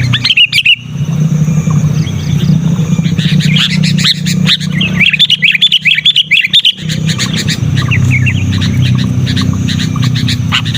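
Sooty-headed bulbul calling loudly in fast chattering runs of chirps, a short burst near the start and a longer run from about four to seven seconds in, over a steady low hum.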